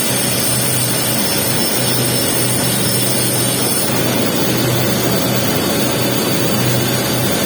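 Arc welding on a pipe's capping pass: a steady crackling hiss from the arc, over a low hum that fades in and out.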